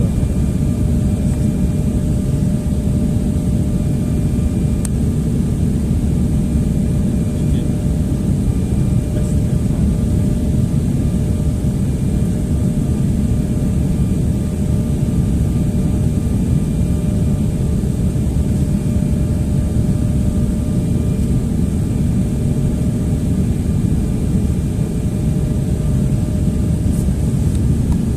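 Airliner cabin noise: a steady low rumble of engines and rushing air, with a few faint steady hums, unchanging throughout.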